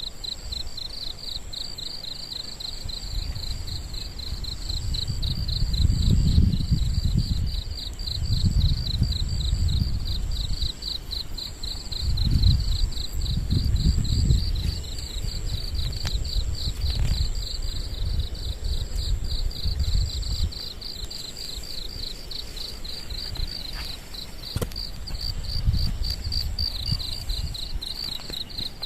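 A steady chorus of insects calling in a high, rapidly pulsing trill, with low gusts of wind buffeting the microphone every few seconds.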